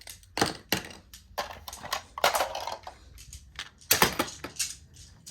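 Small objects and packaging being handled: an irregular run of clicks, taps and rustles, with a sharp knock about four seconds in.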